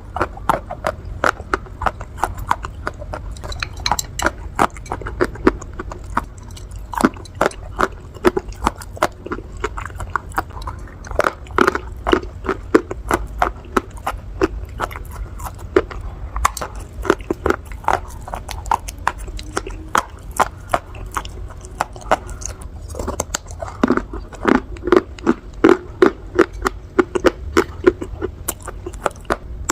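Close-up crunching and chewing of fired clay pot pieces: a fast, uneven run of sharp, brittle crunches, several a second.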